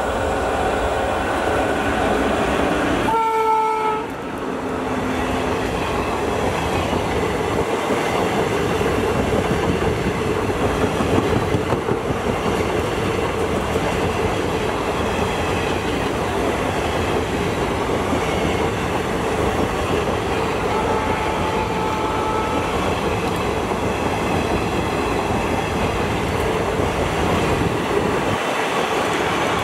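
Electric-hauled passenger train passing at speed: the coaches rumble and clatter steadily over the rails. The horn, already sounding, stops about a second in, a short horn note comes about three seconds in, and a fainter horn note is heard about two-thirds of the way through.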